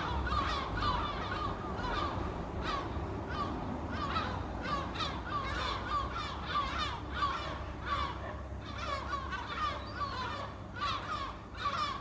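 A flock of gulls calling without a break: many short, overlapping cries, over a steady low rumble.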